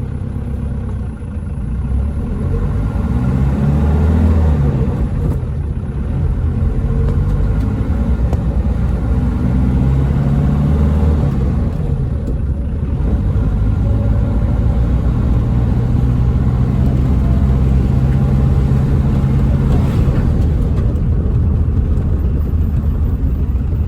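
Hindustan Ambassador's BMC Stride engine pulling away and accelerating through the gears, its pitch rising twice with a drop at each gear change, then running steadily at cruising speed.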